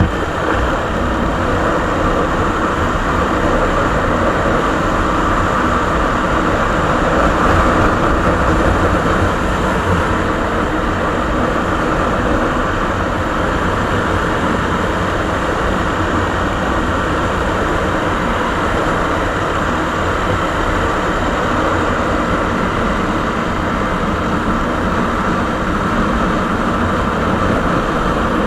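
Suzuki Savage's single-cylinder four-stroke engine running steadily through its original exhaust tip, swelling a little about seven to nine seconds in.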